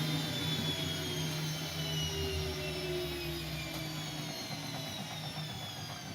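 Siemens Siwamat C10 washing machine's drum and motor spinning down: a machine whine that falls slowly and steadily in pitch while it gets gradually quieter.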